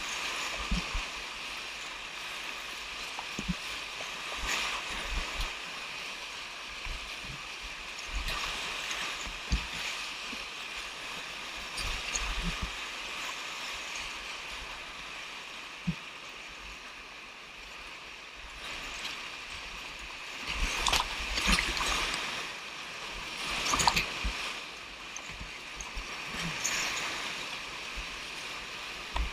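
Whitewater river rapids rushing in a steady hiss, with louder splashes swelling up a few times, most strongly in the second half.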